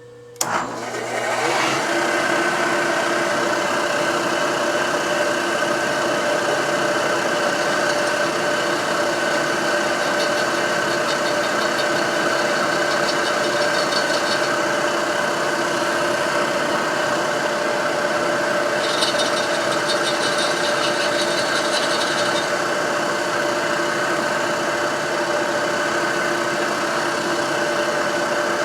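Motor of a stationary drilling machine spinning up and then running steadily as the bit drills out a broken cylinder head stud in the motorcycle cylinder. A higher rasping sound from the cut comes and goes twice, around ten seconds in and again near twenty.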